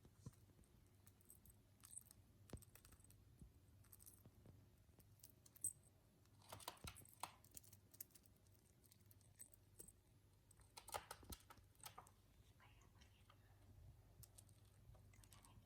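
Faint scattered clicks and taps of small birds' beaks and claws, with two short bursts of scuffling about six and a half and eleven seconds in.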